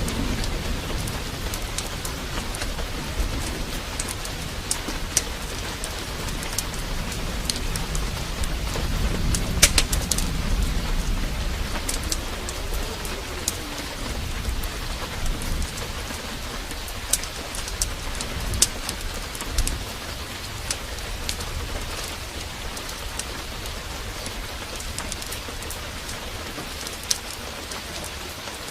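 Steady downpour of rain, with a low thunder rumble that is strongest at the start and again about ten seconds in, then dies away. Scattered sharp ticks and pops sound over the rain.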